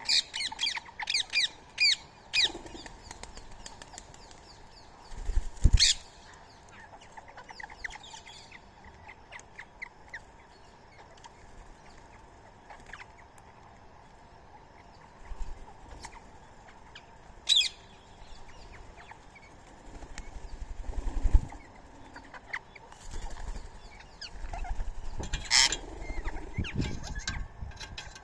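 Birds calling: a quick run of high chirps at the start, then a few loud, sharp shrieks about six, seventeen and twenty-five seconds in, with low fluttering thumps of wingbeats between them.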